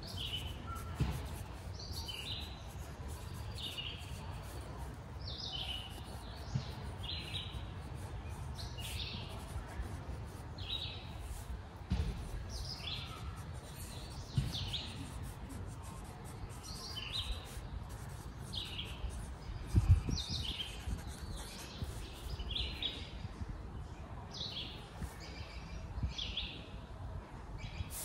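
A songbird chirping over and over, short high notes about once a second, over a low rumble. A single thump about twenty seconds in is the loudest sound.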